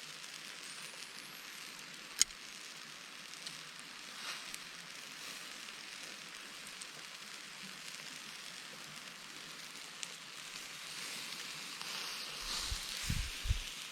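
Food sizzling on a grill over a campfire in a steady hiss, with the fire crackling: a sharp pop about two seconds in and a few smaller clicks. A few dull low thumps come near the end.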